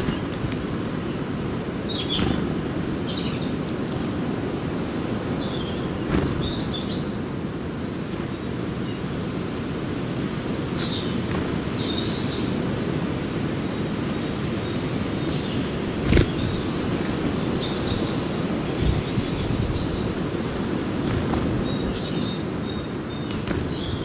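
Birds chirping in short, scattered high calls over a steady low background rumble, with a few sharp knocks, the loudest about two-thirds of the way through.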